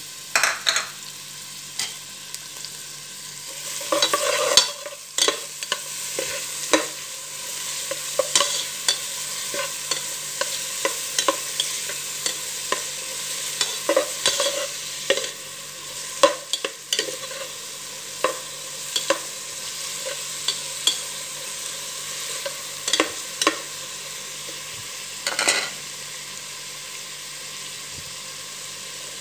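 Chopped onion sizzling steadily in hot oil in an enamel-coated pot. A utensil stirring it scrapes and clacks against the pot many times, irregularly, with short clusters of knocks.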